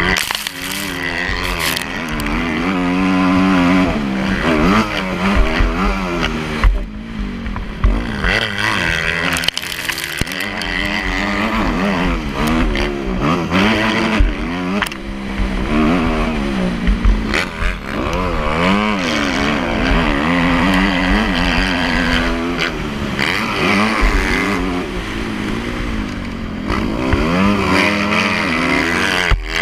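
Motocross bike engine revving up and down again and again as it is ridden, its pitch rising and falling with the throttle and gear changes.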